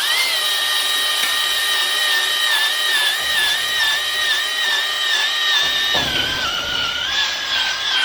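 Electric drill spinning a stone cylinder hone in an engine block bore: a steady motor whine with the stones rubbing on the cylinder wall. The whine dips slightly in pitch about six seconds in.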